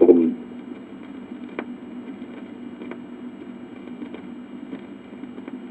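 A record player's stylus runs in the run-out groove at the end of a record, heard through the amplifier: a steady hum with a faint click about every second and a half, once per turn of the record. It opens on a brief loud sound as the record's last recorded sound ends.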